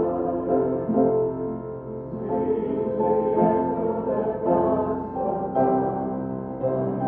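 Keyboard music playing slow, held chords that change every half second to a second, in hymn style.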